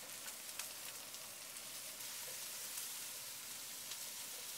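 Diced mixed vegetables frying in olive oil in a pot on high heat: a steady, faint sizzle with a few light crackles.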